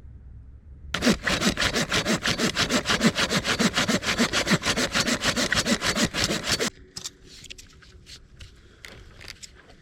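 Hand saw cutting through wood in quick, even back-and-forth strokes, starting about a second in and stopping after about six seconds. A few scattered light clicks and knocks follow.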